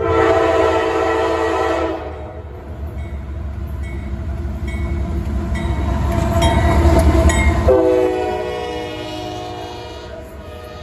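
A freight train's diesel locomotives passing at speed: a horn blast for about two seconds at the start, the low engine and wheel rumble growing to its loudest as the locomotives go by about seven seconds in, then a second horn blast as they pass. The rumble fades as the freight cars follow.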